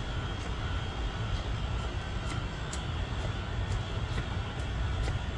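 Steady low rumble of outdoor city background noise, with faint scattered clicks.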